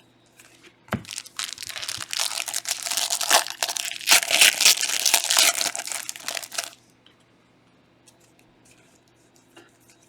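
A foil trading-card pack wrapper being torn open and crinkled, a few seconds of dense crackling that peaks around the middle, followed by a few faint clicks as the cards are handled.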